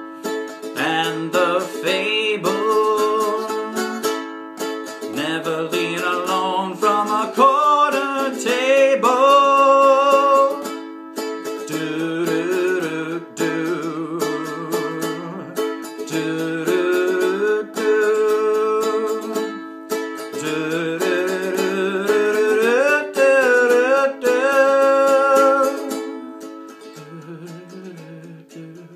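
Music on a plucked string instrument: a melody with sliding notes over a steady accompaniment, fading out over the last few seconds.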